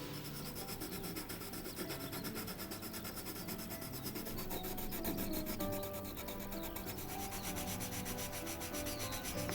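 Pencil shading on paper: rapid, even back-and-forth strokes, several a second, scratching steadily.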